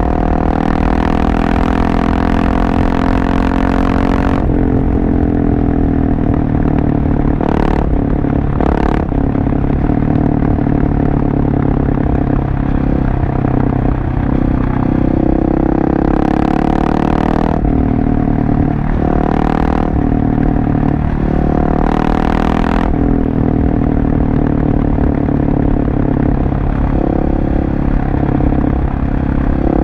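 Husqvarna 701 Supermoto's single-cylinder engine through a LeoVince aftermarket exhaust, running under way with its pitch repeatedly rising and falling as the rider opens and closes the throttle. Several short rushes of noise come and go over it.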